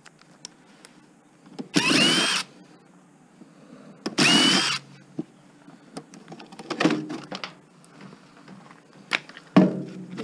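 Power drill running in two short bursts a couple of seconds apart, its motor whine rising in pitch as it spins up each time, with light clicks and knocks of parts being handled afterwards.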